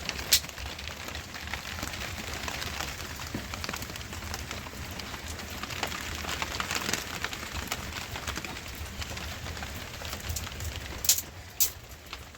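Steady rain falling, a dense patter of fine drops with a low rumble underneath. There is one sharp click about a third of a second in and two more near the end.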